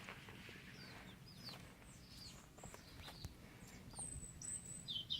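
Faint chickens calling: scattered short, falling chirps and clucks, with a thin high whistle about four seconds in.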